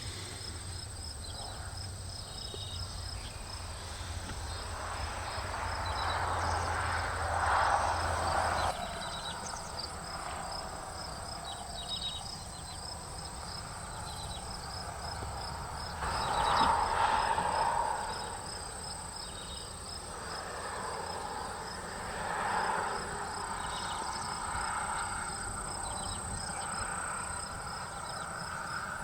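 Insects chirping steadily, a continuous high trill with a fast pulsing chirp beneath it. Over this, rushing noise swells up and fades twice, loudest about a third of the way in and again past the middle.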